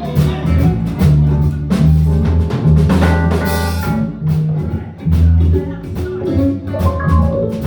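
Live blues band playing between sung lines: drum kit and bass carrying the beat, with a short guitar fill about three seconds in.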